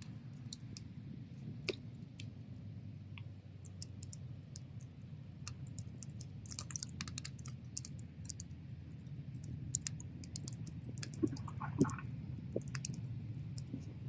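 Wood bonfire burning, with a steady low rumble of flames and frequent irregular sharp crackles and pops from the burning wood.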